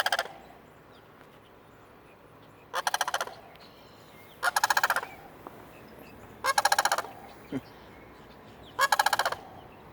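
Male turkey gobbling: four loud, rapid rattling calls about two seconds apart. This is the breeding-season call of a displaying tom.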